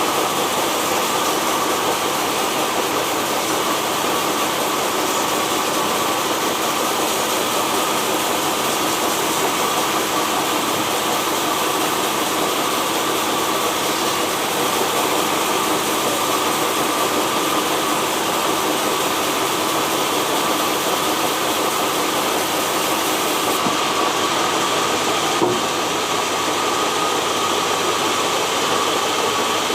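Sawmill machinery running steadily: an even mechanical noise with a constant hum.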